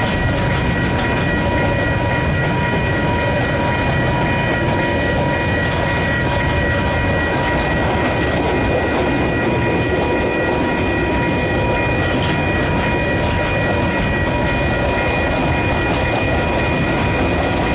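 A train passing at close range: a continuous, even rumble of wheels on rail with clickety-clack, and a steady high whine held throughout.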